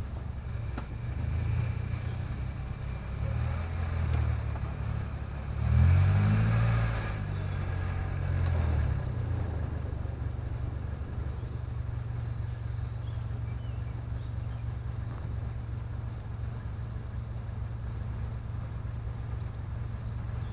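Toyota Celica's 1.8-litre four-cylinder VVT-i engine idling, with a few short rises in revs in the first ten seconds, the strongest about six seconds in, as the car creeps forward; then a steady idle.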